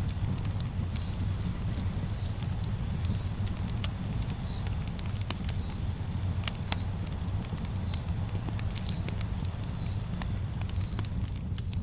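Campfire burning: a steady low rumble of flames with scattered sharp crackles and pops. A short high chirp repeats about once a second throughout.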